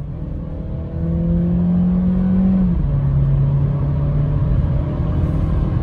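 SEAT Leon FR's 150 hp turbocharged four-cylinder mild-hybrid petrol engine heard from inside the cabin, pulling hard under full-throttle acceleration with its pitch climbing. Near the middle the pitch drops sharply as the gearbox shifts up, and the engine then pulls on at lower revs.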